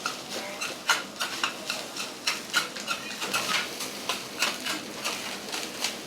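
Metal spatulas clacking and scraping on a hot steel griddle in quick, uneven strokes, about two or three a second, over a light sizzle.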